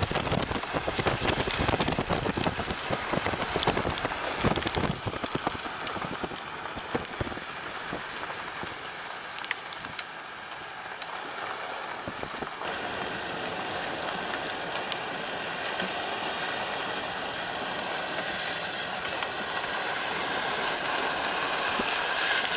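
Heavy rain in a thunderstorm with gusting wind. Gusts knock against the microphone in the first half, then a steadier rain hiss slowly grows louder toward the end.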